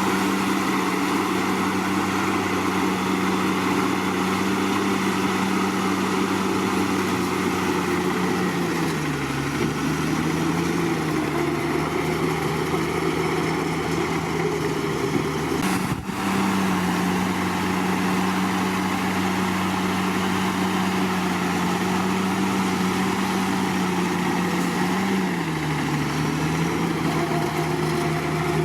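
Bulldozer's diesel engine running steadily under work. Its engine speed dips about a third of the way in and again near the end. After a brief break in the sound near the middle, it comes back up to the higher speed.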